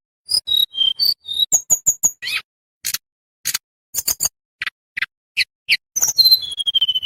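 Tledekan bambu singing: a rapid string of sharp ticking chips mixed with short, clear, high whistles, some sliding down in pitch, ending with a longer whistle that falls steadily.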